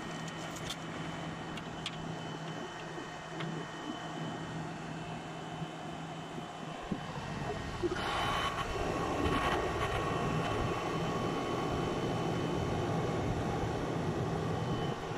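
Fedders-built Maytag 8,000 BTU window air conditioner running, its fan blowing and compressor humming, while its loosened plastic front grille is handled and pulled off with a few clicks and rattles. About halfway through, the rush of air gets louder and fuller.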